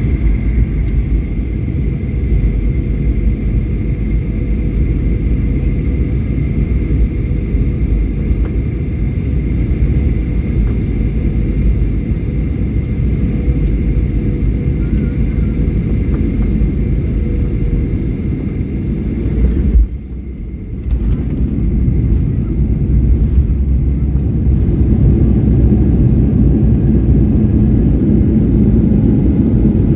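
Passenger jet on its landing approach: a steady low engine rumble with a faint whine in the first two-thirds that fades away. The sound cuts out briefly about twenty seconds in, then the rumble comes back.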